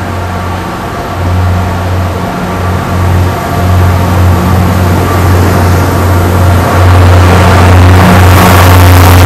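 MBTA commuter rail train of bilevel coaches rolling past along the platform, with the steady low drone of its diesel locomotive under the wheel and rolling noise. The sound swells about seven seconds in as the locomotive draws near.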